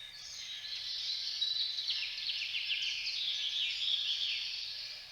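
Forest ambience recording: a dense chorus of high-pitched chirping that swells in during the first second and fades near the end.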